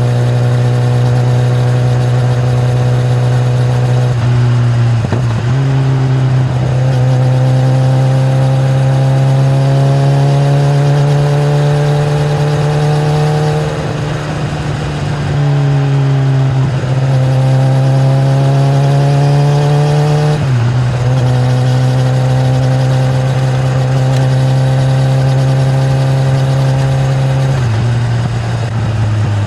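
Kawasaki ZX-10R (2013) inline-four through its stock exhaust, ridden at steady or gently rising revs. The engine note steps suddenly in pitch about five times, as with gear changes or throttle changes.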